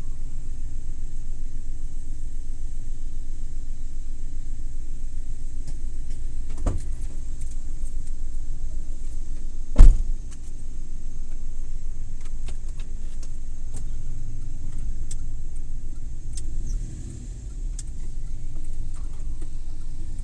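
Suzuki Every Wagon kei van on the move: a steady low road-and-engine rumble, with a smaller knock about six seconds in and a sharp, much louder thump near the middle, followed by scattered light ticks and rattles.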